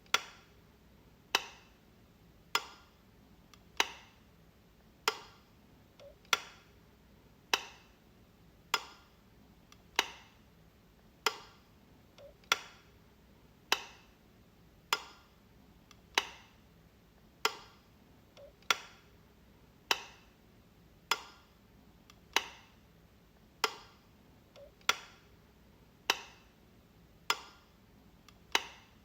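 A wall light switch clicking, one sharp click about every second and a quarter, evenly repeated.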